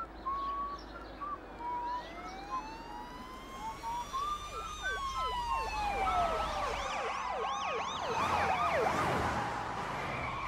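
Police car sirens wailing in long rising and falling sweeps, switching to a fast repeated yelp about halfway through, several sirens overlapping and growing louder. Birds chirp briefly at the start.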